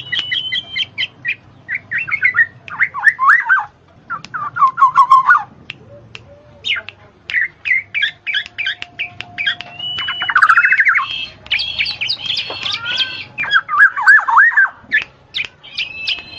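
Birds chattering busily: rapid chirps, warbled gliding phrases and harsh squawks overlapping.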